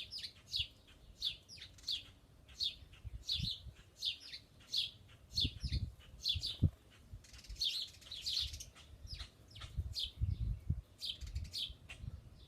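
Small songbirds chirping steadily: short, falling, high chirps repeated two or three times a second. Low dull thumps and rumbles come in about halfway through and again near the end.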